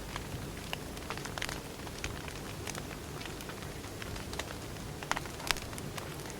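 Wood fire burning, crackling with scattered sharp pops over a steady low rumble, with two louder pops about five seconds in.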